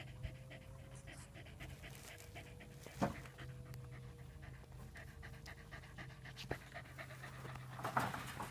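Dog panting steadily and quickly, with a couple of brief knocks, one about three seconds in and one near the end.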